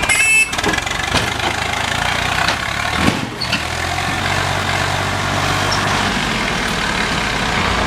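Swaraj 744 FE tractor's three-cylinder diesel engine running steadily. A short, loud burst with a high-pitched tone comes right at the start.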